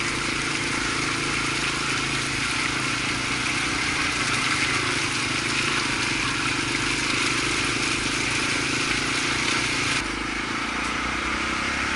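Honda XR250 single-cylinder motorcycle engine running steadily while riding, with a dense rush of wind and road noise over it. About ten seconds in, the sound changes abruptly to a different stretch of riding.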